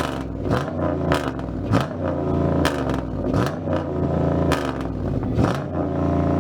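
Car engine being revved over and over through its exhaust, the pitch climbing and dropping with each blip, with sharp pops in between.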